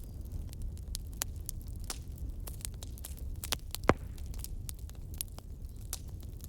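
Wood fire in a fireplace crackling, with many small irregular pops and one louder pop about four seconds in, over a low steady rumble.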